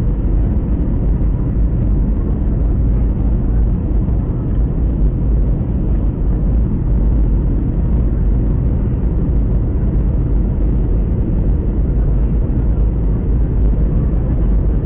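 Steady, loud low rumble of an airliner's engines and airflow, heard from inside the passenger cabin.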